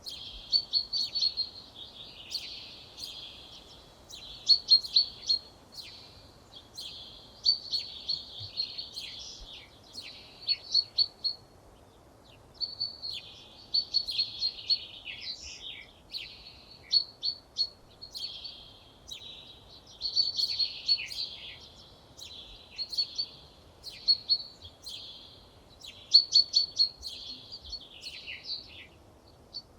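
A songbird singing a dozen or so short phrases, each a quick run of high notes lasting about a second or two, with brief pauses between them, over a faint steady outdoor background.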